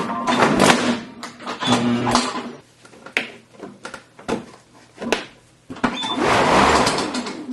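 Lawn mower running, with a series of sharp knocks and clatters as toys are struck and broken up.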